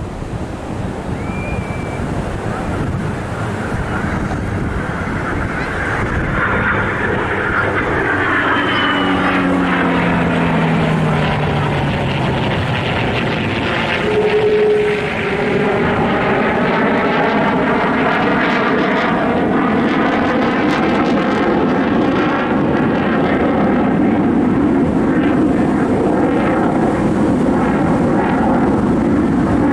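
Airplane engine noise building as an aircraft flies over, with a tone in the engine sound dropping in pitch about ten seconds in as it passes, then a steady loud rumble.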